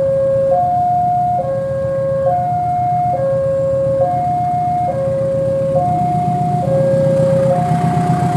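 Two-tone electronic railway warning alarm alternating steadily between a low and a high note, each held a little under a second. Underneath runs the low rumble of an idling diesel locomotive engine, which grows louder and pulses near the end.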